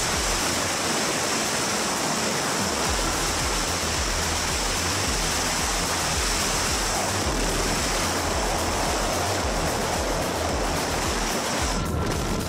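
Steady rushing water, with a brief change near the end.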